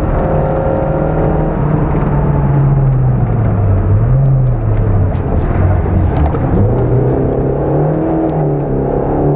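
Opel Corsa A GSI's four-cylinder engine heard from inside the cabin at speed on a rally stage. The engine note drops about four seconds in as the car slows, then climbs again as it accelerates.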